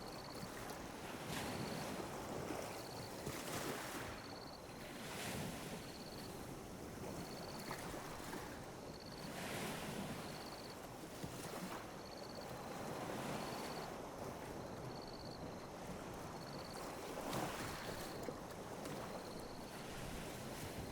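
Small ocean waves lapping and washing on a beach, swelling and ebbing every second or two with light splashes. A faint, short, high chirp repeats evenly about every second and a quarter.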